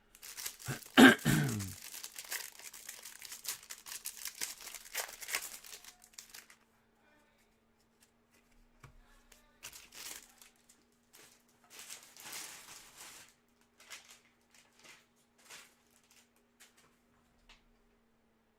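Packaging of a trading-card hanger box being torn open and crinkled by hand: dense crinkling for the first six seconds or so, then scattered lighter rustles and crackles. A short loud voice sound, like a cough, comes about a second in.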